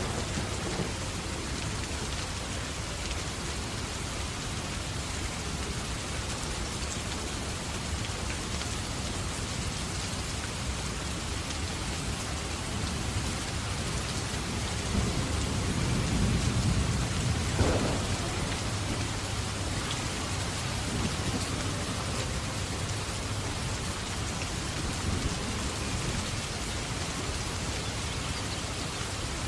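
Steady heavy rain hissing, with a low rumble of thunder swelling up about halfway through and fading again.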